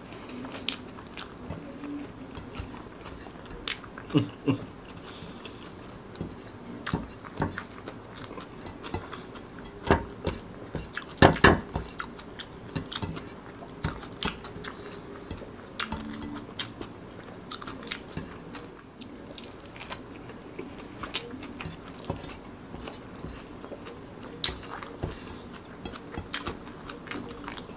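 Close-miked chewing and wet mouth sounds of a man eating fried rice with his fingers, with scattered short clicks and smacks. The loudest cluster comes about eleven seconds in.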